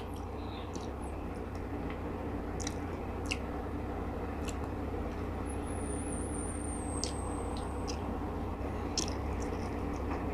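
Close-miked chewing and small wet mouth clicks of someone eating steamed tilapia by hand, over a steady low hum.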